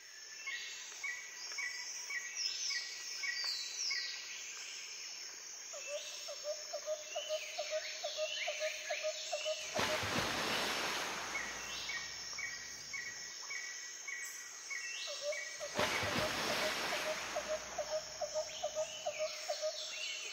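Several birds calling in woodland: one repeats a short high note about twice a second, while another gives two runs of quick, lower repeated notes. Two brief rushes of noise, about ten and sixteen seconds in, stand out over the calls.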